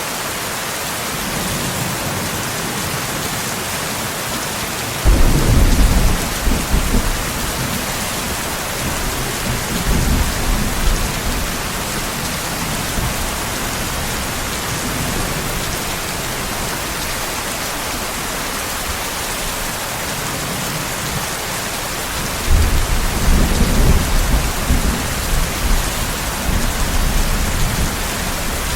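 Steady rain with rolling thunder: a low rumble starts suddenly about five seconds in, a smaller one follows around ten seconds, and a longer rumble begins a little after twenty-two seconds and is still going near the end.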